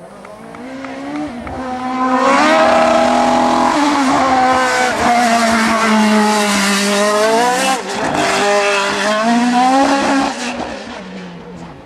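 Racing car engine at high revs as the car passes at speed: the note swells in, climbs and drops in pitch several times as it works up and down the gears, then fades away near the end.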